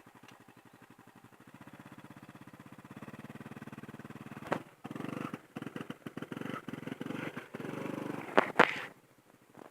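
Small motorbike engine running with a fast, even pulse that grows louder over the first few seconds, then turns choppier and uneven. Two sharp knocks come near the end, just before the engine sound stops.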